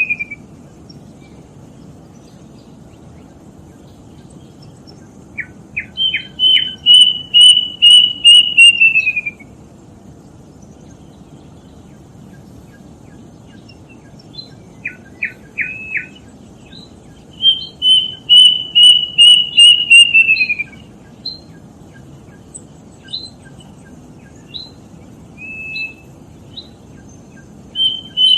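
A kedasih cuckoo singing: runs of about eight clear whistled notes that slide down in pitch at the end, each run led by a few short notes. The bird sings twice, with a long pause between, then gives scattered single notes, over a faint steady hiss.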